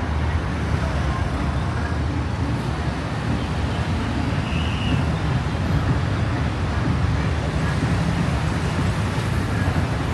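Steady city road traffic: a continuous low rumble of passing cars with no single vehicle standing out.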